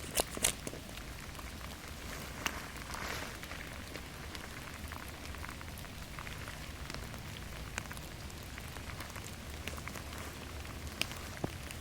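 Steady rain falling in a forest, an even patter with occasional louder single drips. Two sharp knocks right at the start are the last strokes of an axe splitting a pine stump into kindling.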